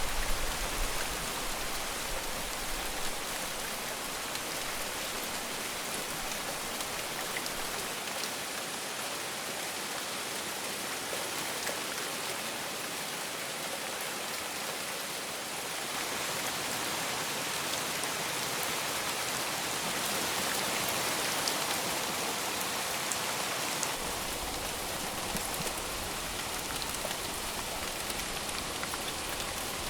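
Heavy rain falling steadily, an even hiss of drops, with a low rumble dying away in the first second or so. The rain turns brighter and hissier for several seconds past the middle.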